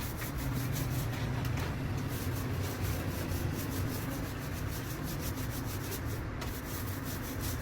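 Rhythmic back-and-forth rubbing strokes on a surface, like hand sanding, about five strokes a second, over a steady low hum.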